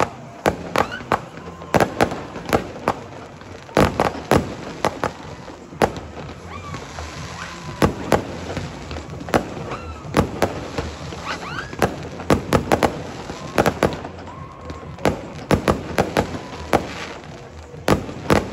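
Aerial fireworks display: a rapid, irregular string of sharp bangs and crackling bursts, several in quick succession at a time.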